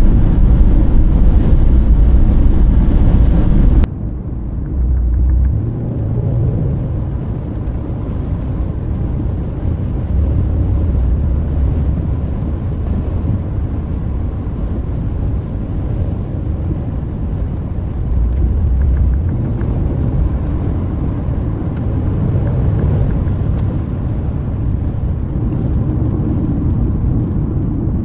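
Steady road and engine noise of a car being driven, heard from inside the cabin. About four seconds in the noise drops suddenly to a quieter, steadier rumble.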